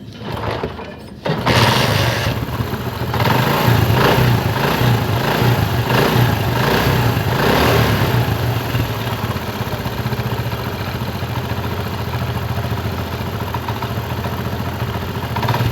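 Honda CD 70's single-cylinder four-stroke engine started, catching about a second in, revved in a few blips, then idling steadily. With a new timing chain and roller rubbers, the timing-chain noise is gone; only a slight tappet noise remains, which the mechanic puts down to slightly loose tappets.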